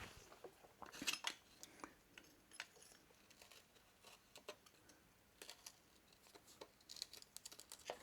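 Faint, scattered small metallic clicks and taps: the Moto Morini's steel clutch actuator rods, two thin and one short fat one, being pushed back into their bore in the engine casing by hand.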